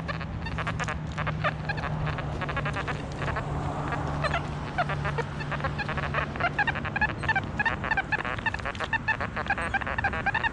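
XP Deus metal detector chattering with rapid short tones as the coil sweeps over ground thick with iron and trash, with a steady low hum under it for the first six seconds or so.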